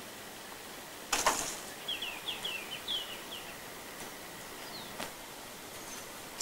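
A bird sings a quick run of about seven short, high, down-slurred chirps over a faint steady hiss. A brief scuff, louder than the bird, comes just before it, about a second in.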